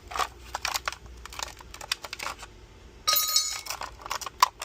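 Reusable ice cubes being dropped one by one into a drinking vessel: a run of short clicks and clinks, with one ringing clink about three seconds in and a sharp knock near the end.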